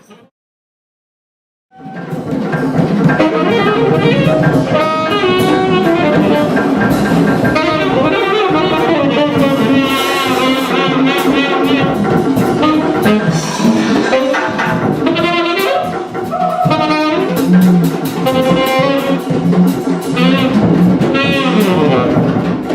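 Small jazz band playing live, a saxophone carrying a wavering melody over drums and cymbals. It starts abruptly after nearly two seconds of dead silence.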